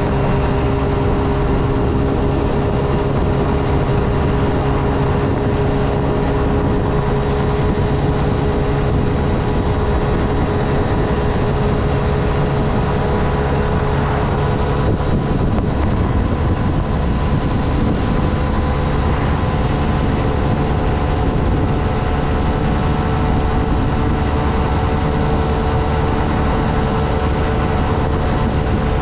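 Honda Navi's small single-cylinder engine running steadily while riding, with wind and road noise on the microphone.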